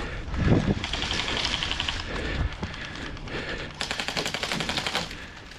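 Airsoft guns firing rapid full-auto bursts, one from about one to two and a half seconds in and another near the end. A loud low thump comes about half a second in.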